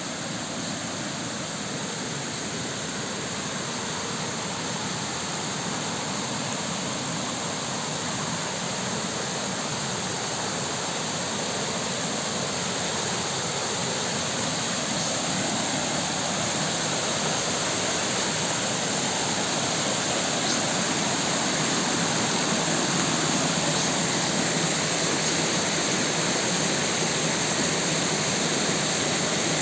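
Rushing water of a rain-swollen stream, a steady hiss that grows gradually louder.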